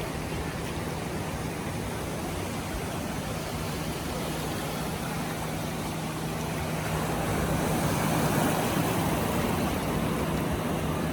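Ocean surf washing onto the beach, with wind rumbling on the microphone; the rush swells about seven seconds in as a wave breaks, over a steady low hum.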